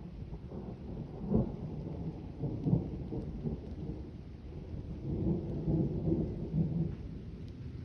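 Thunder rumbling and rolling, with two sharper claps in the first few seconds and a longer rolling swell about five to seven seconds in.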